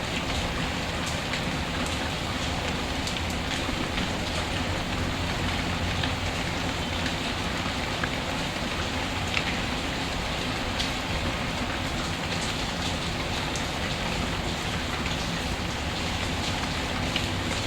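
Steady, even rain, with scattered sharp crackles and pops from a wood fire over it.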